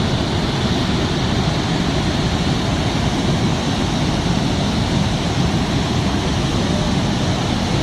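Swollen flash-flood river rushing past, a loud, steady, unbroken roar of churning water.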